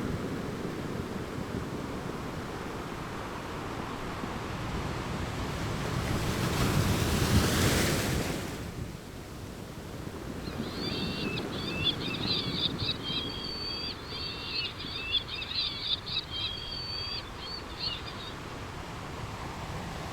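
Ocean surf washing in steadily, one wave building and breaking about seven seconds in. In the second half a run of quick, high chirps sounds over it.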